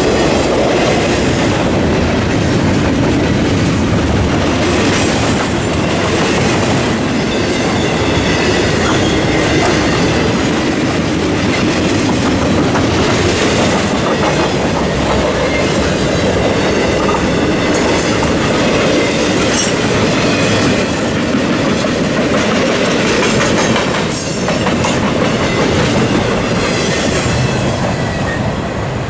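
Freight cars of an intermodal train, trailers on flatcars, rolling past at speed: steady rumble and clacking of wheels over the rail joints, with bursts of high wheel screech. The crossing's electronic bell rings under the train noise, and the last car clears near the end.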